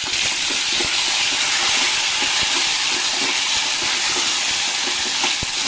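Whole ivy gourds sizzling steadily in hot coconut oil and tempering in an aluminium pot, stirred with a wooden spatula that gives a few faint scrapes and knocks against the pot.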